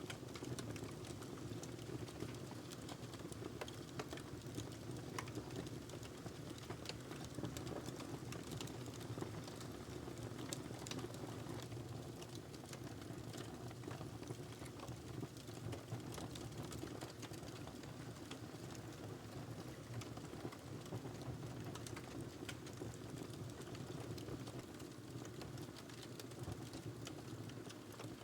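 Wood fire crackling in a fireplace: a steady low rumble of the burning under frequent, irregular sharp pops and snaps.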